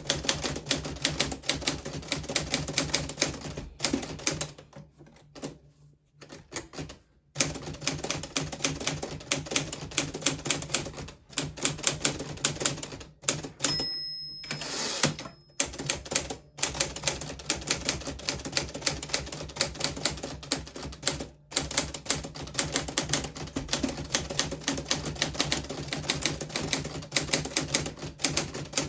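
A 1940s Smith Corona Silent manual typewriter being typed on: a rapid, uneven run of key strikes. The typing eases off briefly a few seconds in, and about halfway through it stops for a moment with a short ringing tone.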